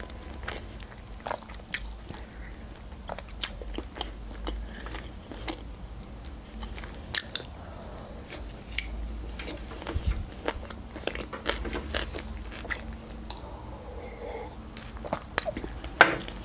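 A person chewing sushi rolls close to the microphone: wet mouth sounds with many short, sharp clicks at irregular intervals, the loudest near the end.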